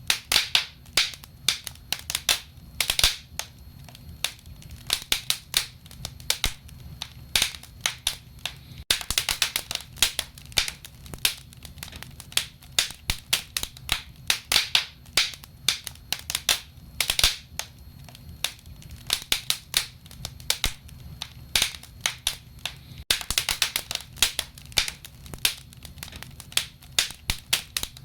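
Wood fire burning in a fireplace, crackling with dense, irregular pops and snaps over a soft low rumble of the flames.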